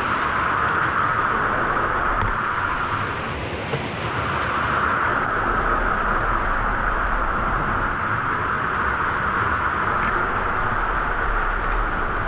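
Steady rushing of a waterfall and its flowing water, an even continuous noise.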